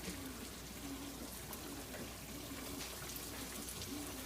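Butter chicken simmering in its creamy tomato sauce in a pan, a steady soft patter of bubbling with small scattered pops.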